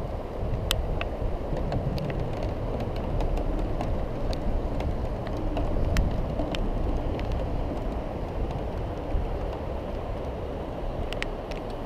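Xiaomi M365 electric scooter rolling along, a steady rumble of tyres on paving. Scattered sharp clicks and rattles run through it.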